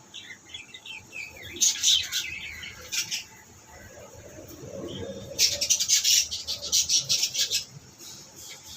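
Small caged pet birds chirping in quick, high bursts, loudest in a dense run a little past halfway.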